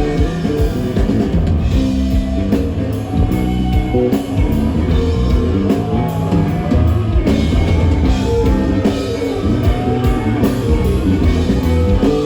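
Rock band playing live without vocals: electric guitar lines that bend in pitch over a drum kit and bass.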